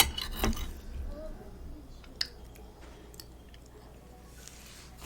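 Close-miked chewing of soft food, with scattered wet mouth clicks and smacks.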